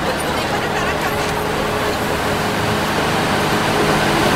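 Passenger train rolling past on the track. The diesel locomotive's engine hum grows louder near the end as the locomotive comes alongside.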